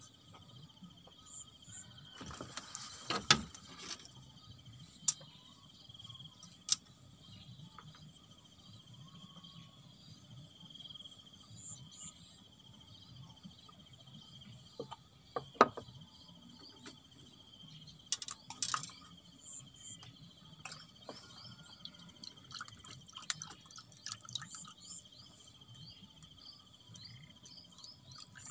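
Water dripping under a steady high insect chirring, with a few sharp knocks about 3 s, 15 s and 18 s in.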